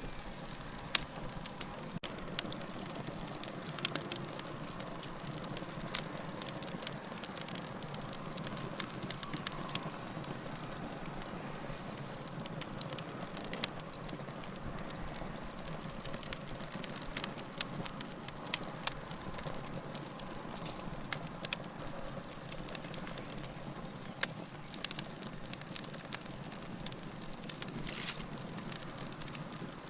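Wood fire crackling: a steady low hiss with frequent sharp pops and snaps at irregular intervals.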